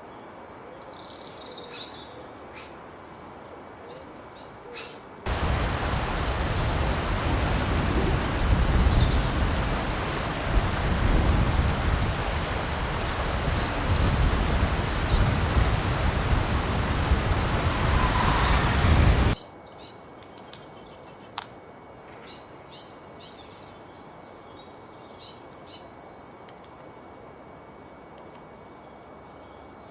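Small birds chirping and singing in short, high phrases. For about fourteen seconds in the middle, a loud, even rushing noise starts and stops abruptly and covers most of the birdsong.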